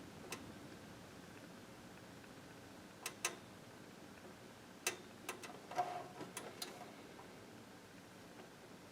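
1980s Lakewood box fan running with a faint, steady whir, with several light clicks bunched around three seconds in and again from about five to seven seconds in.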